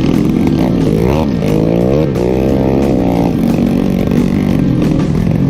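Trail motorcycle engine running and revving, rising and falling in pitch about a second in and again in a longer sweep from about two to three seconds in. The owner says the engine is down on power from leaking compression.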